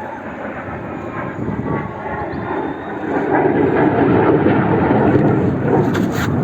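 Aircraft passing overhead: a roar that swells about three seconds in, peaks, then begins to ease off near the end.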